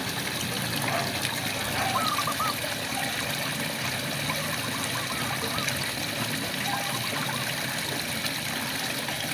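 Steady rainfall with frogs calling over it: short, wavering chirped calls that come every second or two.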